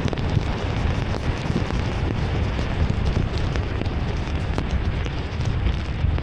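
Heavy rain pelting a moving car: a steady dense hiss with scattered sharp drop impacts over a low rumble from the car driving on the wet road.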